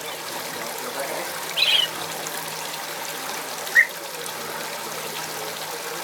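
Steady trickling water with two short calls from aviary birds, one just under two seconds in and a sharper, briefer one near four seconds in.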